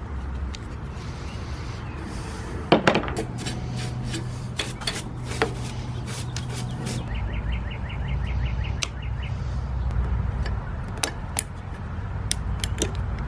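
Hand tools and metal parts clicking and knocking while a lawn mower's carburetor is being worked on, with a quick, even run of ticks like a ratchet wrench partway through, over a steady low hum.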